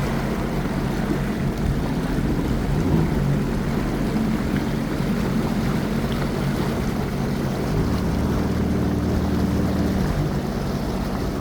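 Motorboat engine running steadily under a rush of water and wind, its tone shifting a little about eight seconds in.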